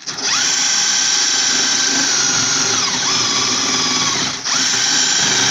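Electric power tool working on a large, stubborn suspension arm bolt, running with a high steady whine. Its pitch sags under load about three seconds in; it stops briefly about four seconds in, then starts again.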